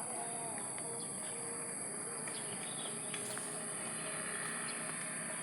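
Insects shrilling in one steady, unbroken high-pitched drone, with faint distant voices or bird calls underneath.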